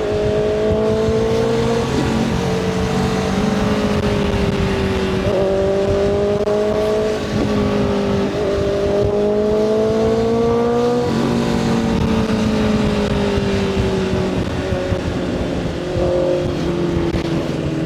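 Motorcycle engine under way, its pitch climbing and then dropping back several times as the rider works through the gears, over a steady rumble of wind and road noise.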